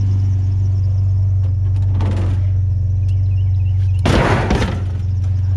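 A pickup truck's engine idling steadily, with a brief scrape about two seconds in and a loud thump and clatter about four seconds in, most likely the old muffler being loaded as scrap.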